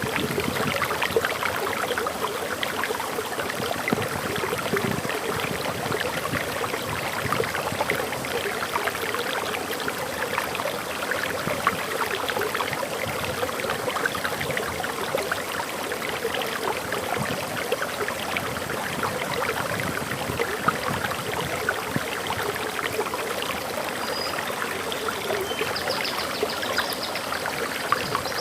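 Waterfall in a forest, water pouring and splashing steadily. Near the end a few faint, high bird chirps sound over it.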